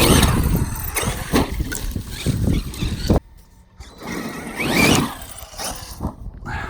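Traxxas X-Maxx RC monster truck accelerating, its brushless electric motor whining up in pitch with rumbling tyre and ground noise. The noise cuts off abruptly about three seconds in, and a second rising whine follows about five seconds in.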